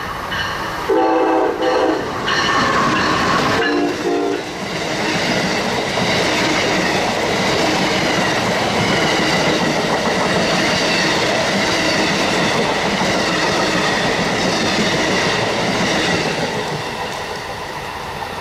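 A locomotive horn sounds a few blasts over the first four seconds or so. Then the train rolls by with steady wheel and rail noise, which eases off toward the end.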